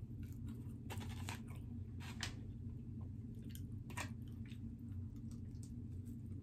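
Close-up chewing and crunching of pepperoni pizza, with irregular crisp crackles from the crust. A steady low hum runs underneath.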